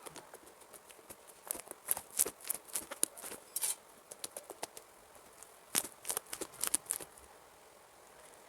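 Crunchy slime being squeezed and pressed by hand, giving quick runs of crackling pops and clicks: one busy stretch about a second and a half in, a pause, then a second short burst near the end.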